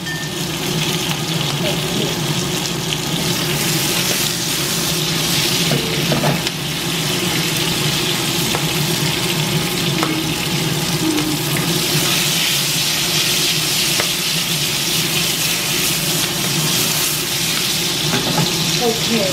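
Small green peppers sizzling in hot oil in a nonstick wok, a steady frying hiss over a low steady hum.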